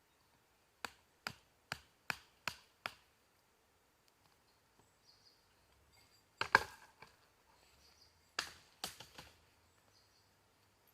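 Wood being chopped: six quick sharp strikes about two a second, then after a pause one louder strike with a crack and a short cluster of strikes.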